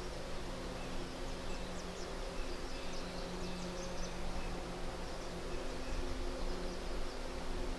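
Outdoor ambience: a steady hiss and a faint low hum, with a few quick, faint high chirps from small birds or insects about one and a half to four seconds in.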